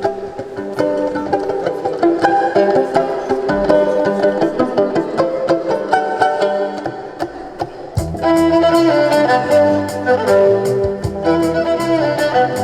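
Live band music led by a violin melody over plucked-string accompaniment; about eight seconds in, bass and drums come in and the band plays fuller.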